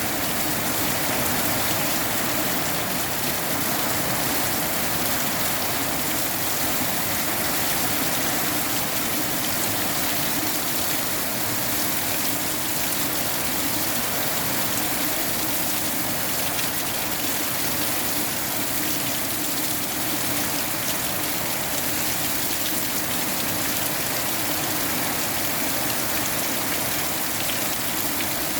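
Steady rain falling: a dense, unbroken patter of drops.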